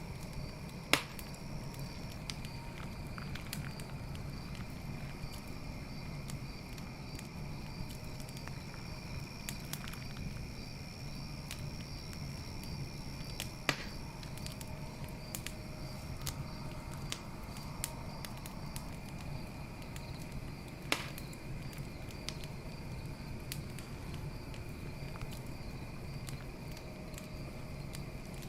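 Campfire crackling with a low steady rumble and scattered sharp pops, three louder ones about a second in, near the middle and about two-thirds through, over the steady pulsing chirp of night insects such as crickets.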